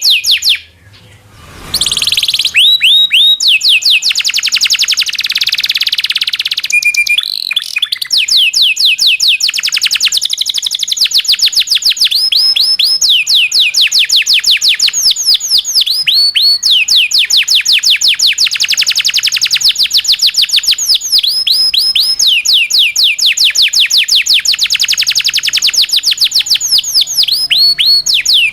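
Local canary singing a long rolling song of fast trills, each a rapid run of high notes sweeping downward, switching to a new trill every few seconds. There is a short pause about a second in.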